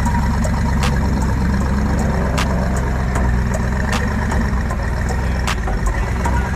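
A car engine idling with a steady low rumble, and a sharp tick about every one and a half seconds.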